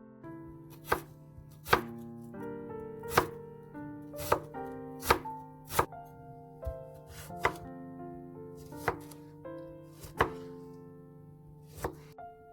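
Knife chopping food, about ten irregular strokes, over soft piano music.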